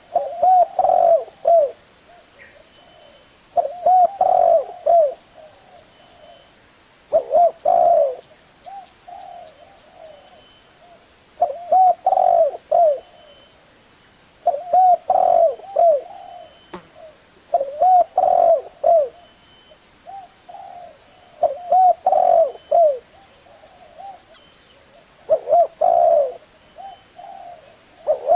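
Spotted dove cooing: a phrase of several short coos, repeated about every three and a half seconds.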